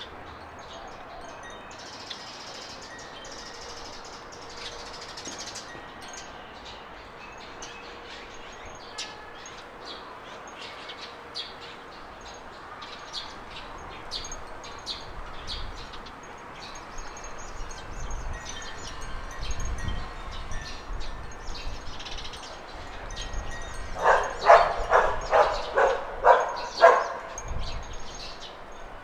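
Small garden birds chirping and twittering throughout. Near the end a dog barks about seven times in quick succession, louder than the birds.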